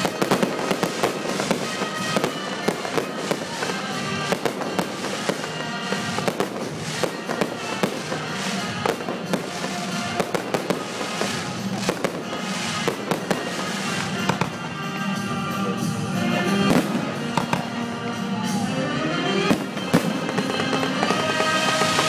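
Fireworks display: a steady run of bangs and crackling bursts over music that plays throughout.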